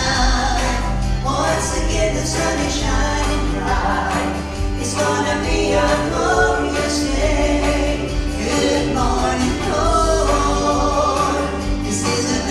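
Women's gospel vocal group singing in harmony over an instrumental accompaniment with a steady bass line.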